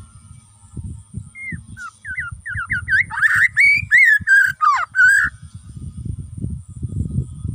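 Bornean white-rumped shama (murai batu) singing: a rapid run of clear whistled notes sweeping up and down, starting about a second in and lasting about four seconds, over a low rumbling noise.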